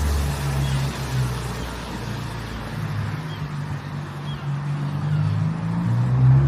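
Road traffic: a motor vehicle's engine running, a low steady rumble that swells and eases, louder near the end.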